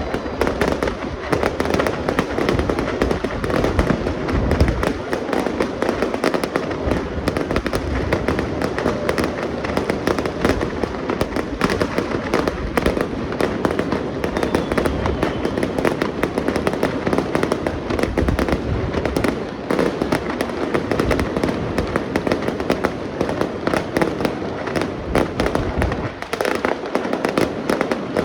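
Fireworks show: a dense, unbroken barrage of bangs and crackling bursts, many every second.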